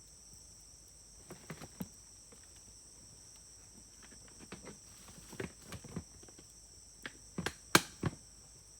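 Wood fire crackling, with scattered sharp pops coming a few at a time and a quick cluster of the loudest pops near the end. A steady high insect buzz runs underneath.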